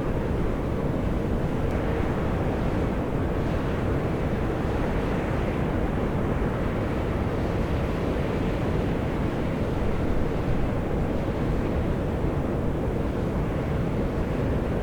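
Volcanic steam blowing steadily out of the Atosanupuri (Mt. Iō) fumaroles: a continuous low rushing noise, even in level throughout.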